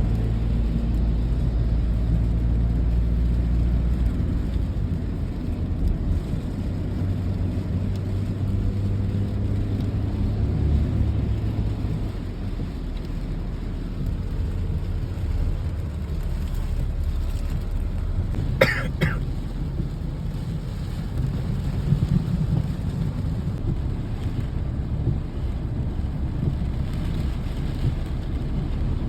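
Rain ambience under a low, steady rumble of thunder, with a vehicle engine running for the first dozen seconds. A single short, sharp sound stands out about two-thirds of the way through.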